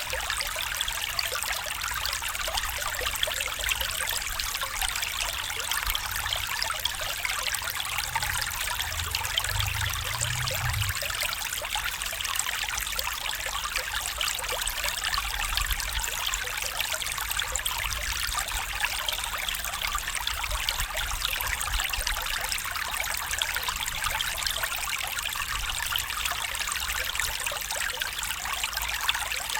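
A stream running steadily, a continuous bright trickling and splashing of water. A faint low rumble comes in briefly about eight to eleven seconds in.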